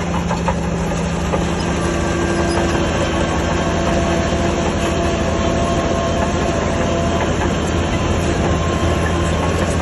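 Heavy diesel earthmoving machinery running steadily, with a faint held whine and scattered light metallic clanks.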